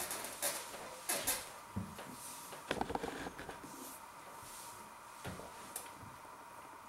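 A man chewing a bite of beef burger: a scattering of short mouth clicks and smacks, bunched near the middle, over a faint steady hum.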